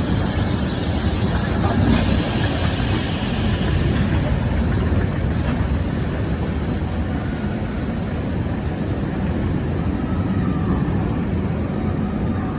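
A train running, a steady heavy rumble with a faint tone coming in near the end.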